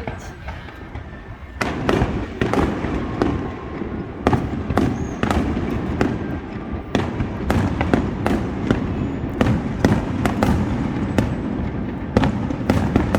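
Aerial fireworks going off in quick succession: many sharp bangs over a steady low rumble, growing denser and louder about a second and a half in.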